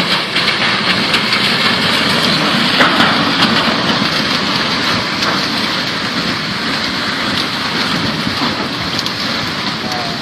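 River in flash flood rushing past, a steady dense roar of water with a constant crackle of logs and debris knocking and breaking in the flow.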